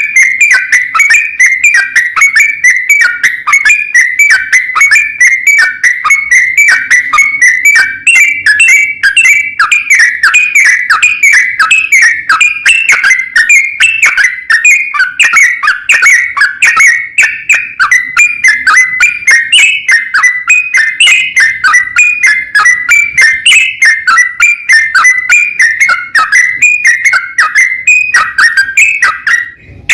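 Sooty-headed bulbul (trucukan) singing a long unbroken run of rapid, whistled notes.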